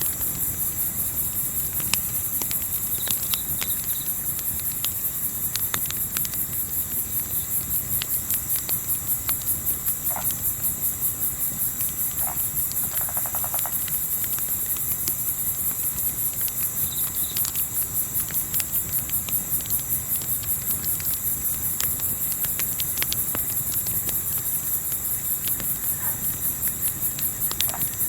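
Crickets chirping in a fast, even, high-pitched pulse, with scattered sharp crackles from a campfire and a steady low rumble of wind.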